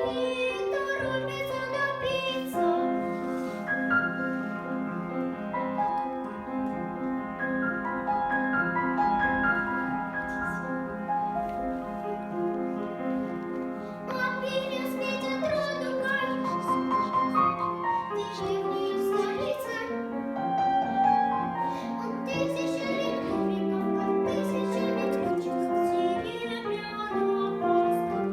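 A young girl singing a children's song over piano accompaniment.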